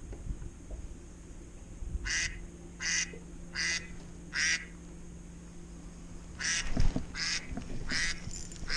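Duck-like quacking: two runs of four short, evenly spaced quacks, with a pause between the runs.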